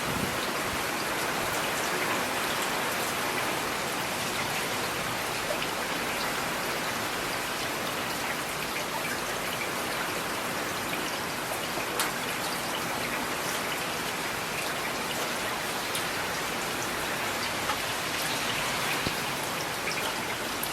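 Steady rain falling, with single drops ticking now and then close by, the sharpest about twelve seconds in.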